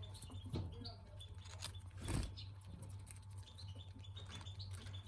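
Pet budgerigars chattering with short soft chirps, among small clicks and scratching, over a steady low hum; one louder rustle about two seconds in.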